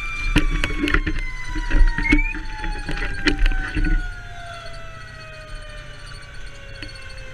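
Fire engine siren winding down, its pitch falling slowly and steadily throughout. Loud knocks and rattles run through the first four seconds, then stop.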